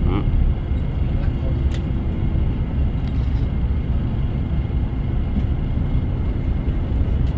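Steady low rumble of a passenger bus on the move, engine and road noise heard from inside the cabin.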